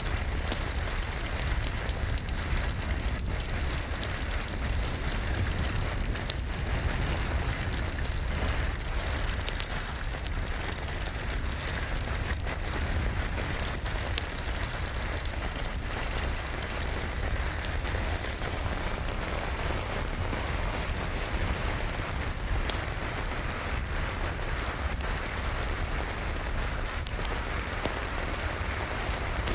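Steady rain on a surface, dotted with scattered sharp crackles from a wood fire in a fireplace, over a low steady rumble.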